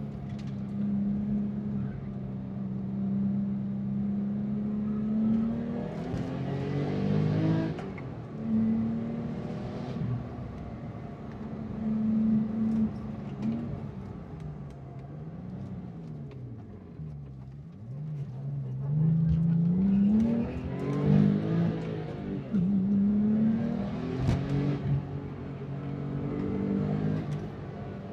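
Car engine being driven hard: its note holds steady for stretches, then rises with the revs and drops back at gear changes several times, dipping and swooping in the middle and revving up again near the end.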